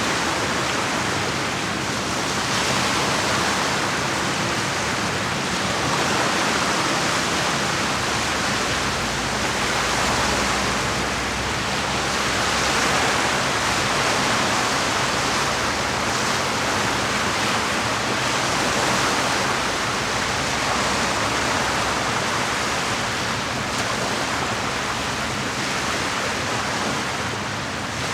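Small lake waves washing against the shore: a steady rushing hiss that swells and eases every few seconds.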